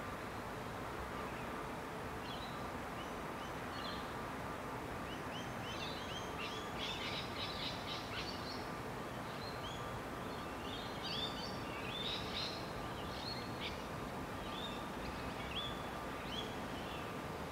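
Small birds chirping and twittering against a steady outdoor background hiss. The calls come in quick runs, busiest from about a third of the way in.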